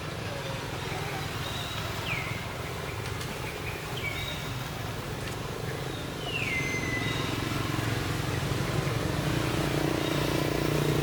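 A steady motor hum that grows louder about six seconds in. Over it come a few short, high calls that slide down in pitch.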